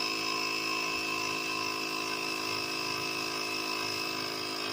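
VacLife 12 V portable tire inflator's small electric air compressor running steadily, pumping up a car tire. It makes a steady mechanical drone with a high whine over it.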